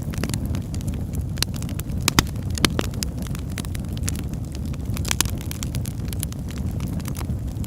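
Wood fire in a fireplace burning with a steady low rumble and scattered sharp crackles and pops, a few louder pops standing out.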